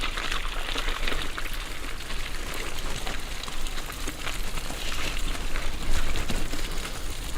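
Bicycle tyres rolling fast over a wet, muddy track: a steady crackling hiss with many small clicks, over a low rumble.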